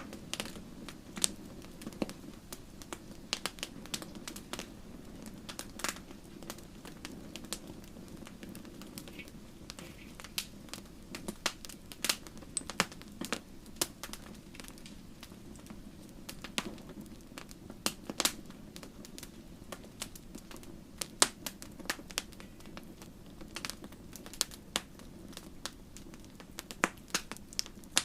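Wood fire crackling in a fireplace: irregular sharp pops and snaps, a few a second at times, over a low steady rumble of the flames.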